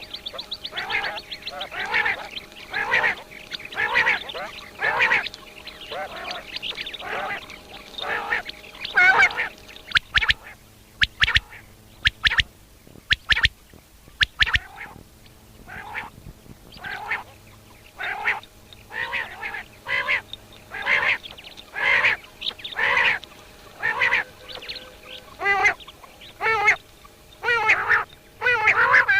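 Common quail calling over and over, harsh calls about one a second. A run of sharp clicks comes in the middle, between two runs of calls.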